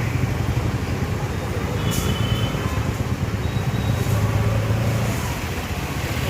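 Road traffic: motor vehicle engines running with a steady low rumble, with faint voices in the background.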